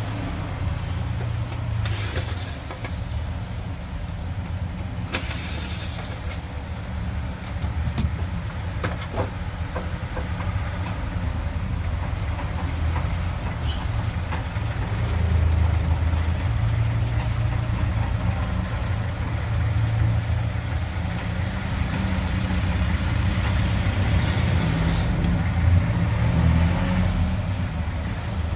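A steady low rumble like an idling engine, swelling a little now and then, with a few sharp clicks in the first third.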